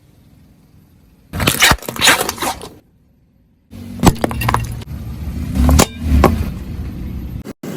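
Objects crunching and cracking under a car's tyre in two bursts split by a sudden cut, the second holding several sharp cracks.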